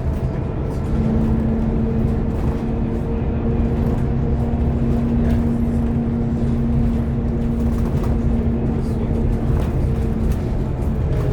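Scania K230UB bus's diesel engine and drivetrain running steadily, heard from inside the passenger cabin: a dense low rumble with a steady whine that sets in about a second in and fades near the end.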